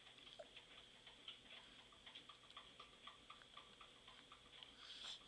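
Faint, quick wet mouth clicks of a mouth sucking and chewing on a piece of banana, a few clicks a second.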